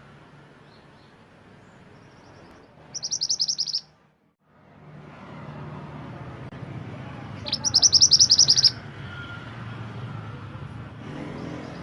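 Mantenan gunung songbird singing: two loud bursts of rapid, high chirps, each about a second long, about three seconds in and again about eight seconds in, with fainter single calls between them over a low steady hum.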